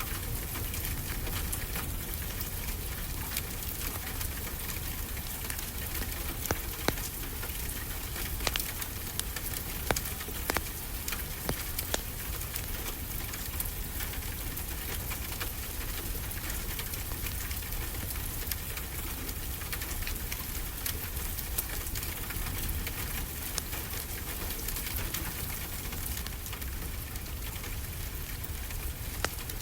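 Steady rain, with a fireplace crackling and a few sharp pops from the fire scattered through it.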